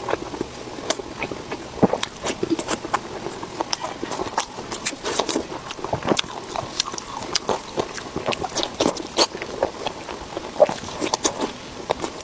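Close-miked chewing of spicy pork belly: irregular wet smacks and clicks of the mouth, many every second.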